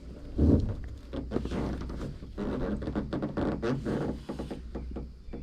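Cam-lock strap webbing being handled and pulled around a canoe on a roof rack: a thump about half a second in, then a run of rustling, scraping and clicking.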